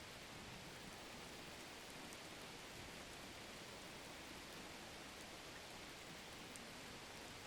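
Faint, steady rain: an even hiss of falling rain with a few soft, high drop ticks.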